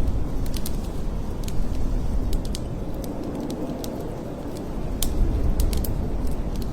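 Blizzard wind blowing hard, a steady low rushing noise that eases a little midway and builds again. Scattered sharp clicks and crackles sound over it.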